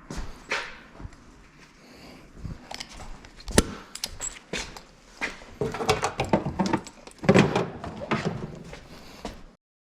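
A string of irregular knocks and clunks, sharpest about three and a half seconds in and thickest in the second half, cutting off abruptly shortly before the end.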